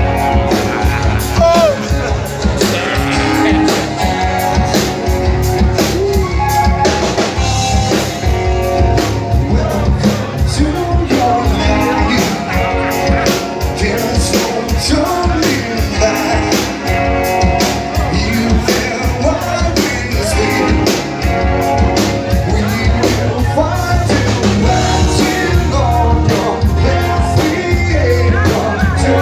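Live rock band playing: a singer over electric guitar, bass and a drum kit keeping a steady beat.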